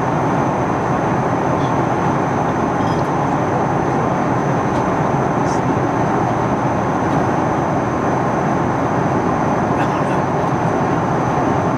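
Steady roar of engine and airflow noise inside the cabin of an Airbus A310-300 airliner during its descent, with a faint steady high whine above it.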